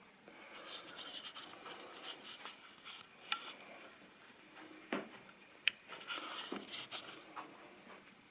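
Model railway rolling stock clicking and rubbing: light, irregular clicks and scraping with a few sharper clicks about three and five seconds in.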